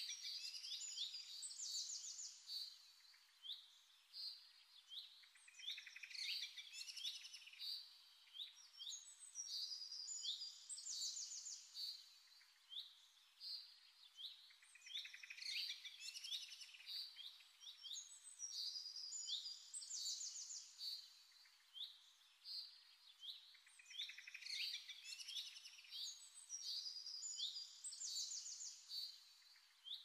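Small birds chirping and twittering: many quick, overlapping high calls with rising and falling notes, coming in clusters every few seconds.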